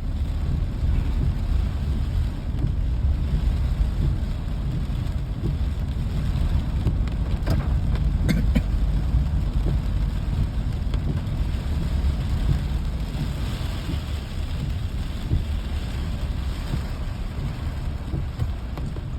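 Rainy-day outdoor ambience: an even hiss of rain over a heavy, steady low rumble, with a few short clicks or ticks around the middle.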